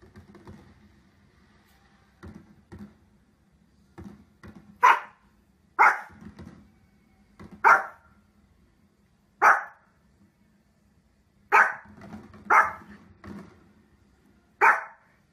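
Small dog barking: single sharp barks, about seven loud ones spaced one to two seconds apart from about five seconds in, with a few quieter woofs before and between them.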